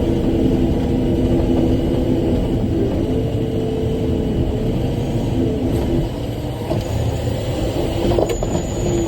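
Large rock haul truck's diesel engine running under load, with a steady drone. About six seconds in it eases off and gets a little quieter, and a few clicks or knocks follow near the end.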